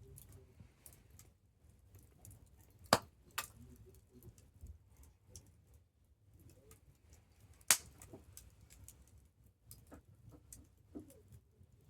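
Wood campfire crackling: scattered small ticks over a low steady rumble, with two loud sharp pops about three seconds in and again near eight seconds.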